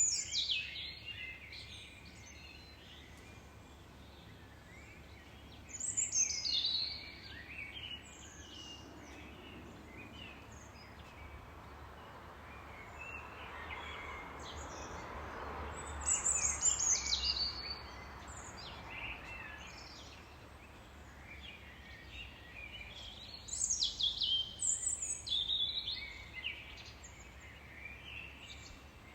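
Songbirds singing in four short bursts of quick, high chirping phrases that sweep downward, about a second in, around six seconds, around sixteen seconds and around twenty-four seconds. Under them runs a steady background hiss that swells in the middle.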